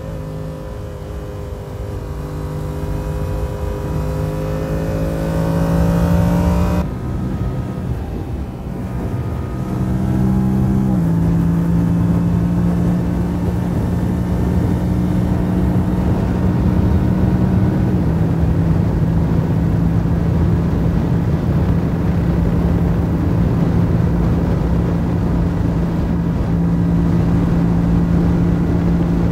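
Yamaha R7's parallel-twin engine under way with wind rush, rising in pitch as it accelerates for the first seven seconds or so, then dropping off. From about eleven seconds in, after a step down in pitch, it holds a steady cruise.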